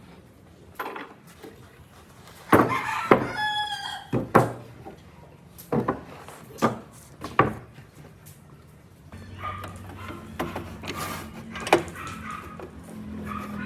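Sharp knocks on wood in the workshop, with a rooster crowing once in the background about three seconds in. A low steady machine hum sets in about nine seconds in.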